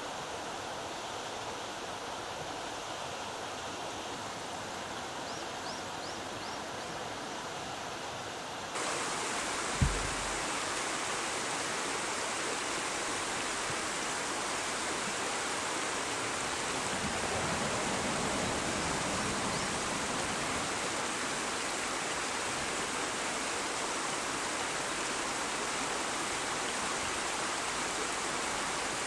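River water rushing steadily over a step in the riverbed. About nine seconds in it suddenly gets louder and brighter, with a single dull thump just after.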